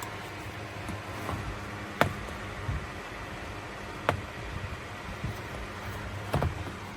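Koonie 8-inch rechargeable portable fan running with a steady whirr and a low hum. Two sharp clicks come about 2 and 4 seconds in, and a few knocks near the end.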